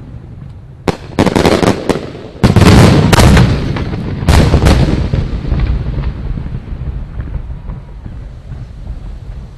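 Aerial fireworks shells bursting. A sharp report comes about a second in, then loud booms in quick succession over the next few seconds, and a low rumble fades away after them.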